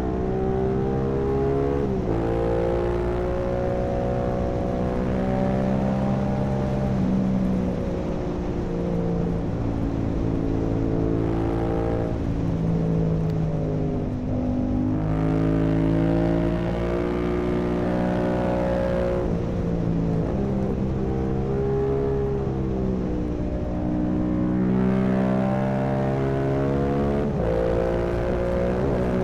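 Yamaha R7's 689 cc parallel-twin engine through an Akrapovic full-carbon racing exhaust with the dB killer removed, heard from on the bike under way. The note climbs and drops back several times as the bike accelerates and changes gear.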